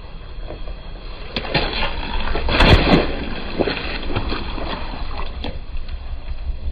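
A car's tyre rolling slowly over objects and crushing them, with scattered crackles and snaps over a low engine rumble; the loudest crunching comes about three seconds in.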